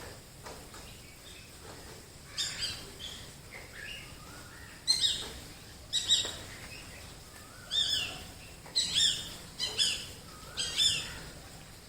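Wild birds calling: a series of about seven loud, sharp, high-pitched call notes repeated at uneven intervals, with quieter chirps between them.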